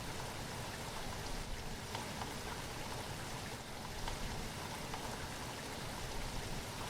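Steady rain falling, a continuous hiss with many small scattered drop taps.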